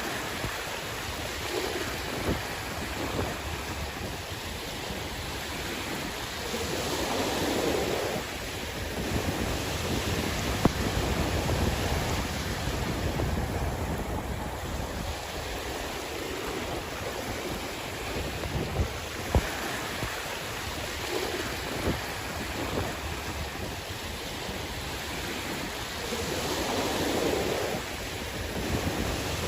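Sea waves washing onto the shore in a steady rush, swelling louder twice, once about a quarter of the way in and again near the end, with wind buffeting the microphone.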